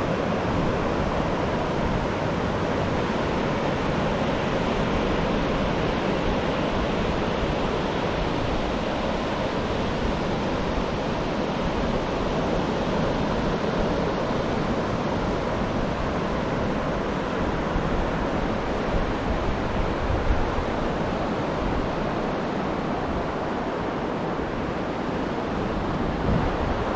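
Ocean surf breaking and washing up a beach under strong wind, with wind buffeting the microphone; a few louder gusts of rumble about two-thirds of the way through.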